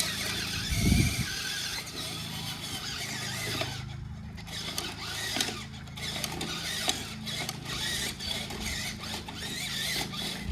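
RC monster truck running and battering another toy car: motor whine and tyre noise with irregular plastic knocks and clatter.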